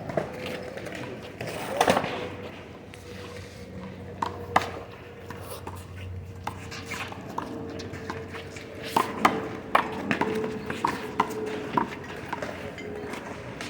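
Sharp slaps and knocks of a rubber handball being struck by hand, hitting the wall and bouncing on the court during a one-wall handball rally, coming irregularly and thickest near the end. A faint steady hum runs underneath.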